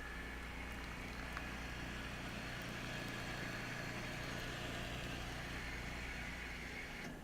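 Futurmat two-group lever espresso machine running with a steady hum and hiss and a faint high whine.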